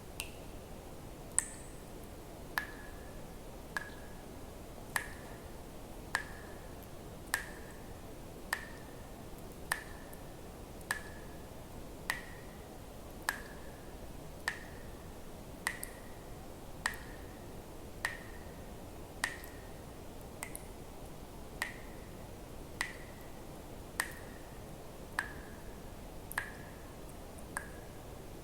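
Water drops falling one at a time at an even pace, about one every 1.2 seconds. Each is a sharp click with a brief ringing plink, over a steady faint hiss.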